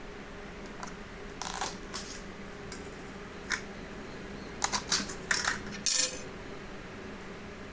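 Fork or spoon clinking lightly against a plate several times, in short sharp taps, busiest in the second half, over a faint steady hum.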